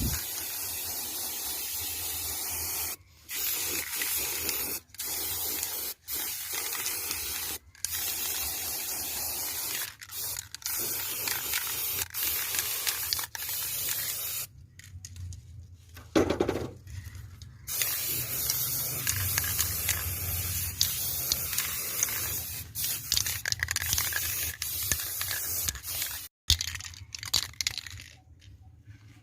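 A pressurised spray hissing in long runs, stopping and starting with short breaks and one longer pause midway.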